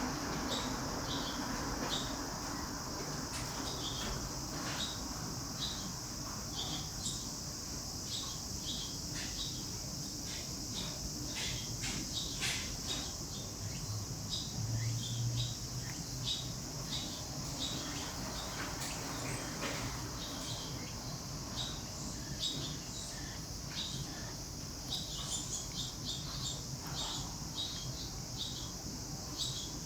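Small birds chirping in short, scattered calls over a steady high hiss.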